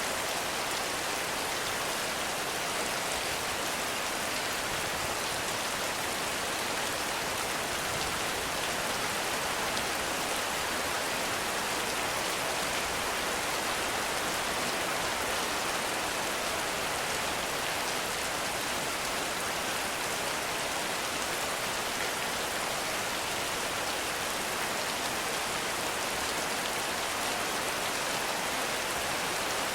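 Heavy rain falling steadily on forest foliage and ground: a constant, even hiss with no thunder or single drops standing out.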